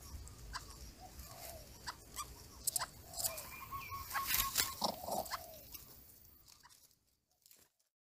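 Soft, short bird calls and squeaks with scattered clicks, and a steady whistled note held for about a second around the middle. The sound fades out near the end.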